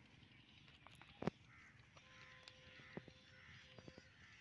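Faint birds calling: a run of short, evenly repeated calls from about a second and a half in, with a sharp click just before them.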